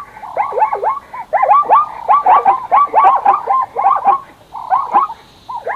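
A chorus of animal calls: many short cries, each falling in pitch, several a second and overlapping, with a short lull near the end.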